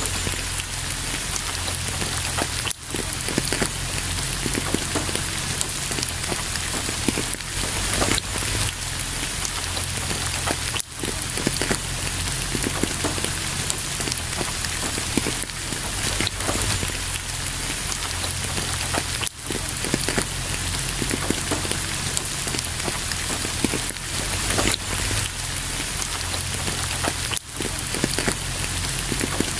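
Steady rain falling, a dense patter of many raindrops. The sound dips briefly four times, about eight seconds apart.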